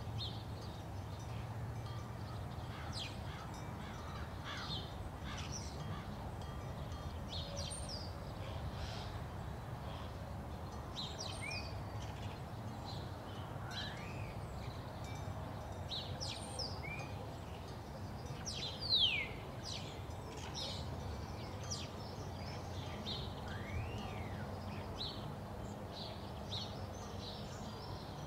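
Many birds chirping and calling at scattered intervals over a low, steady rumble, with one louder falling call about 19 seconds in.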